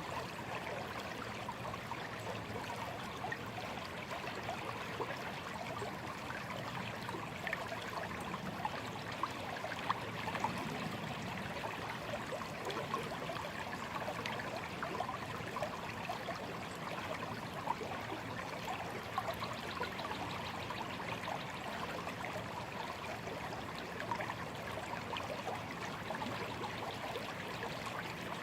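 A small stream flowing and trickling over stones, a steady babble of running water with many small splashes.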